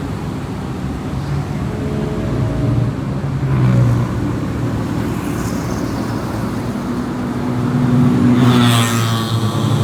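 A car driving on a highway: steady tyre and road noise under an engine note that rises and falls. Near the end a louder engine sound rises in pitch, as from another vehicle passing or accelerating close by.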